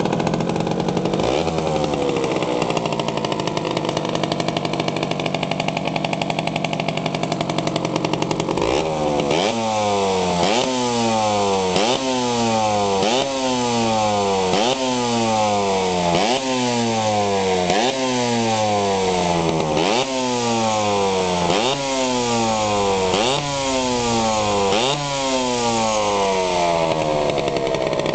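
Yamaha DT50's small single-cylinder two-stroke engine, just started and running with a buzzy idle. About nine seconds in it is revved repeatedly, the pitch climbing and dropping back roughly every second and a half.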